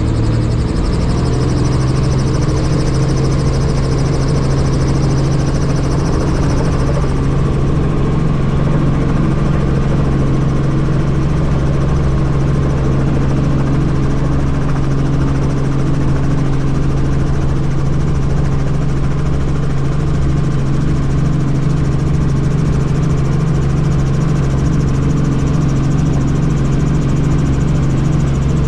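Helicopter in flight: engine and rotor running steadily with a pulsing low rumble. A high whine fades out about seven seconds in.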